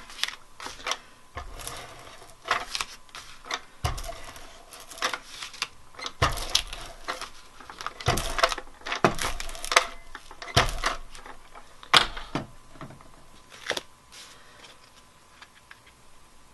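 Irregular taps, clicks and rustles of paper and cardstock being handled and pressed together on a work table, thinning out near the end.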